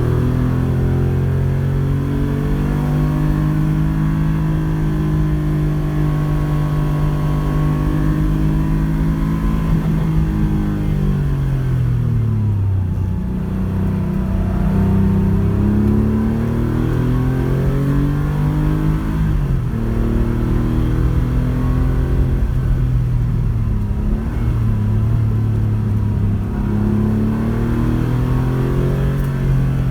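Porsche 911 rally car's flat-six engine driven hard, its note climbing slowly through the revs and dropping off several times, most sharply about twelve seconds in and again near twenty seconds.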